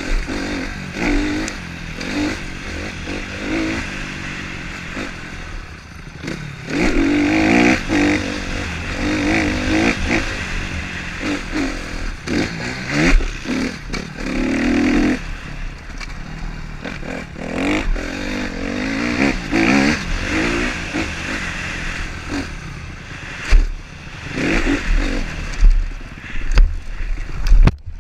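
Motocross motorcycle engines revving up and down again and again as the bikes ride, with occasional loud low thumps.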